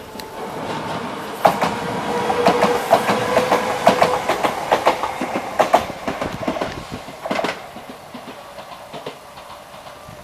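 Enshu Railway electric train passing over a level crossing, its wheels clicking rapidly over the rail joints and crossing, then dying away about seven seconds in.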